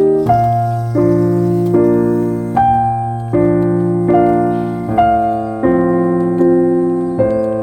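Background piano music: gentle, slowly changing sustained chords, one every second or so, each struck and then fading.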